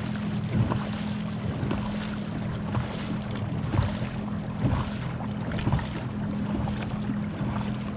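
Watersnake 30-lb-thrust electric trolling motor running at top speed with a steady hum, over a wash of water noise from the moving kayak and wind on the microphone.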